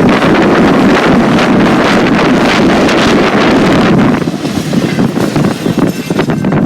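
Strong wind buffeting the microphone in gusts, easing off about four seconds in.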